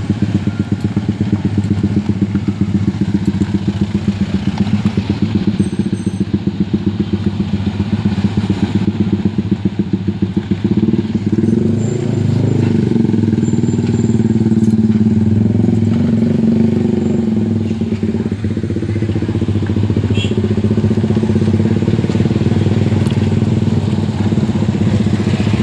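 Nearby vehicle engines in slow traffic: a close engine running with a steady throb, then revving up and down with rising and falling pitch from about halfway through.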